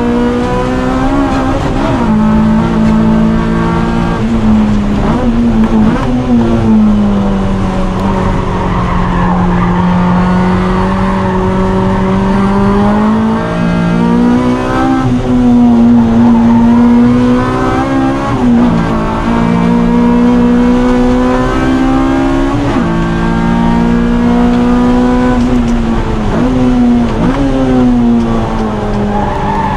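Honda K-series four-cylinder engine revving hard, its pitch rising and falling again and again through gear changes, with the tires squealing in the corners: the tires are worn out.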